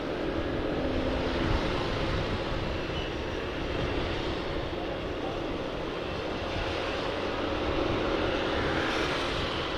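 Motorbike engine running steadily while riding, mixed with wind rushing over the microphone.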